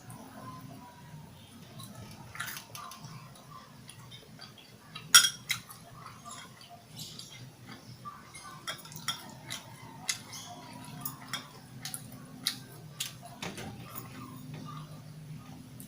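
Eating sounds as a grilled pork-intestine barbecue skewer is chewed, with scattered small clicks and clinks against a plate and one sharper click about five seconds in, over a steady low hum.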